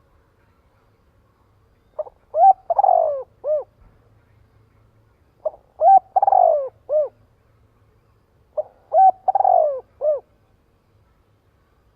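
Spotted dove cooing its song three times, each phrase a short coo, a longer rolling coo and a final coo, about three seconds apart. This is the decoy call used to stir up and call in wild spotted doves.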